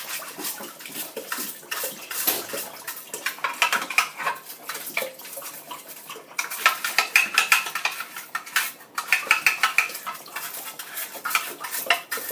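Scrubbing and clattering as a budgie's water drinker is cleaned by hand: a dense run of rapid scratchy strokes and knocks.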